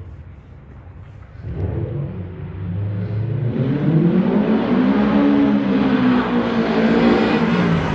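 Honda Civic EG's B16A twin-cam four-cylinder, breathing through a 4-1 header and SRS G50 muffler, low at first and picking up about a second and a half in. It is then revved slowly up, the pitch rising to a peak midway and falling back near the end.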